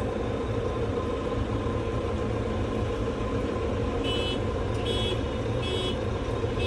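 A tractor engine runs steadily, heard from inside the cab. In the last few seconds, three short high-pitched beeps sound in quick succession.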